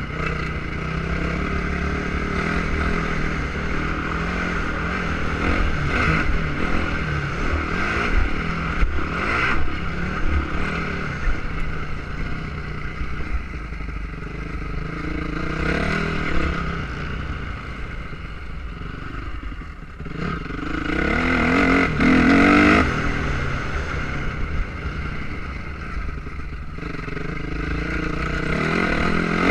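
Motocross motorcycle engines running and revving, rising and falling in pitch, with one bike coming louder and revving up about two-thirds of the way in.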